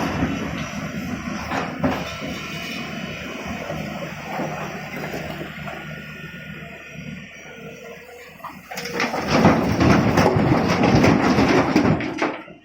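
Tata Hitachi 200 excavator working a load of stone, engine running under a steady rattle of rock that slowly fades; about nine seconds in a much louder clatter of stones rushes for around three seconds and cuts off suddenly near the end.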